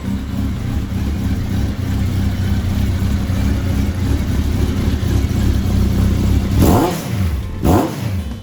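Honda CB1300 Super Bol d'Or inline-four breathing through a TSR full exhaust system, idling steadily. Near the end it is blipped twice, about a second apart, the revs rising and dropping quickly each time.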